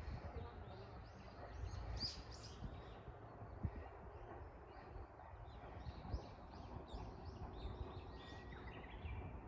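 Birds chirping, many short high calls repeated one after another, over a low steady rumble.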